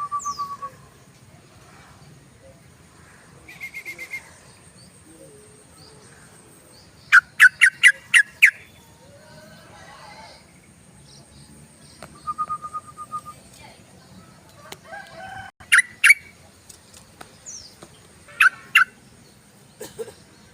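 Yellow-vented bulbul (trucukan) calling in repeated bursts of quick, sharp chattering notes, with short trills between them.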